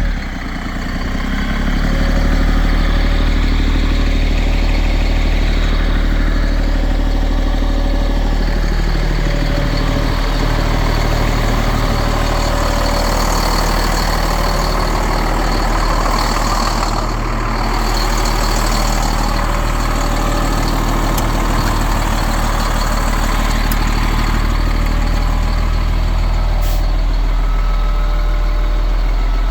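Freightliner hook truck's diesel engine running steadily, its pitch stepping up about a second in and settling lower near the end.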